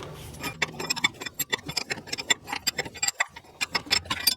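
Irregular light metallic clicks and ticks, several a second, as a Ford Ranger's loosened reverse-thread fan clutch is unscrewed with a 22mm wrench.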